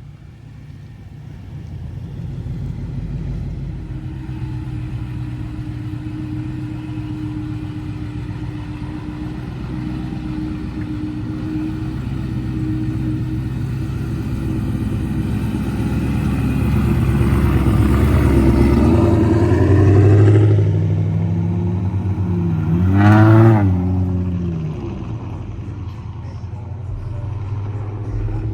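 A car engine running, building gradually in pitch and loudness, then a single quick rev up and back down before it settles to a steady run again.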